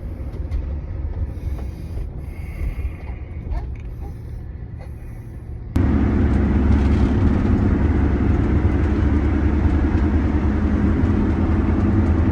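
Motor vehicle engine running, heard as a steady low rumble. About six seconds in it jumps abruptly to a louder, fuller drone.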